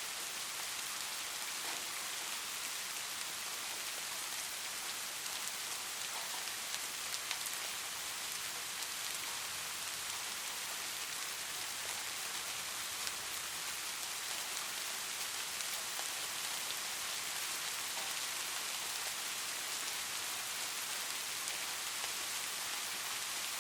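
Light rain falling steadily, an even hiss with many small drop ticks scattered through it.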